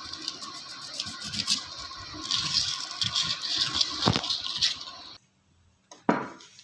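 Fine emery paper rubbed over the rotor of a small air-cooler water pump, a scratchy rasp in quick repeated strokes as mineral scale is scoured off. There is a knock about four seconds in, and the rubbing stops abruptly about five seconds in, followed by a couple of knocks.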